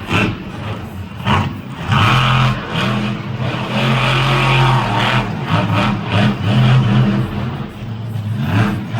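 Mega Wrex monster truck's engine revving hard in repeated bursts, pitch rising and falling as the throttle is opened and let off.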